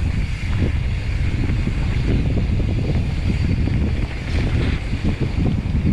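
Mountain bike riding along a dirt trail, with wind buffeting the camera microphone in a steady low rumble and many small knocks from the tyres over rough ground.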